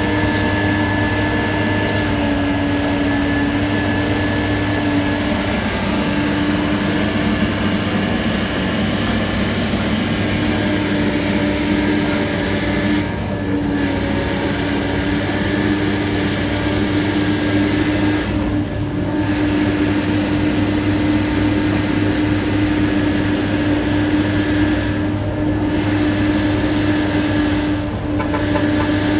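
Engine of heavy asphalt-paving machinery running steadily at close range, a constant loud hum. Its pitch sags briefly a few times, around three seconds in and again near the middle.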